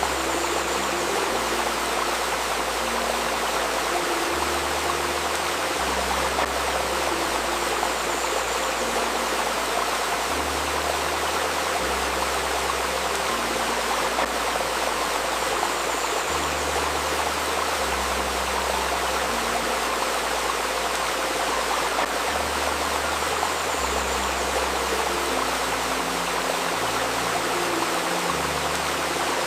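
Steady babbling of a shallow stream, with soft sustained low synth tones beneath it that shift in pitch every couple of seconds: a river recording with a 528 Hz healing tone layered over it.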